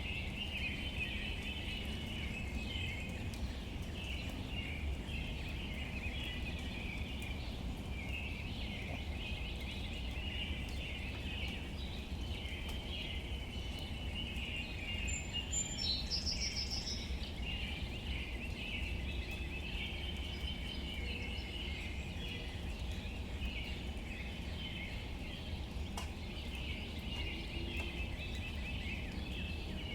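Outdoor nature ambience: a continuous chorus of small chirps, with one clearer bird call about 15 seconds in, over a steady low rumble.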